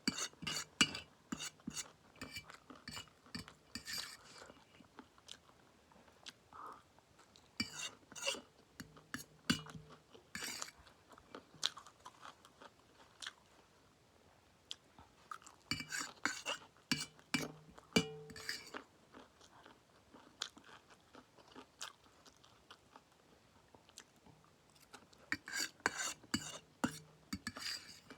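Close-up chewing of spicy instant noodles mixed with crunchy peanuts, with clicks of cutlery on the plate, in bursts every several seconds.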